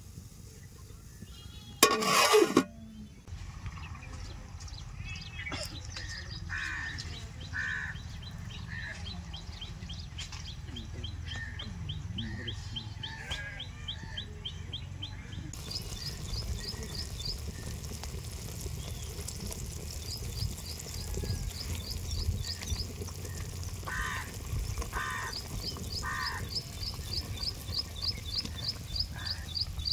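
Birds calling: fast series of high chirps and scattered short, harsh lower calls, over a low steady rumble. A loud brief sound stands out about two seconds in.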